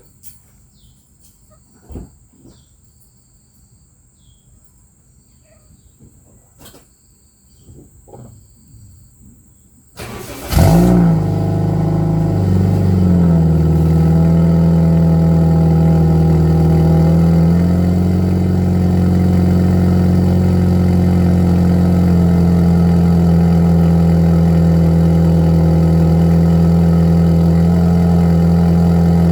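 Toyota Vios 1.5-litre engine with its stock exhaust: after a few faint clicks and short repeating beeps, it is started about a third of the way in, runs at a higher fast idle for a couple of seconds, then settles into a steady idle.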